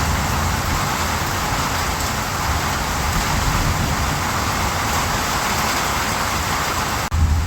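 Steady rain, an even hiss. It breaks off for an instant about seven seconds in, and a short low rumble follows.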